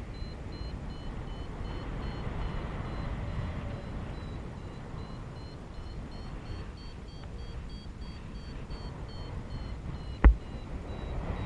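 Paraglider variometer beeping in a quick regular series over wind rushing past the microphone; the beeps' pitch rises slowly and then sinks back, as the climb rate strengthens and then eases. One sharp knock near the end.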